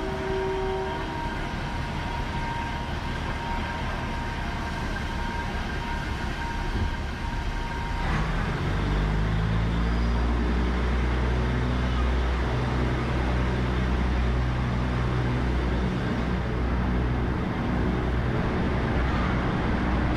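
Diesel train engine working hard as the train pulls away, its deep note climbing in steps. A steady high whine in the first part stops about eight seconds in, as the engine note comes up.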